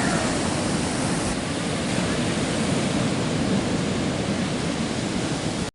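Steady rushing noise of ocean surf on the beach, cutting off suddenly near the end.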